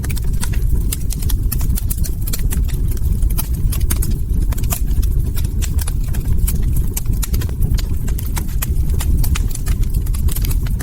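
Log fire crackling: frequent, irregular sharp pops and snaps over a steady low rumble of burning.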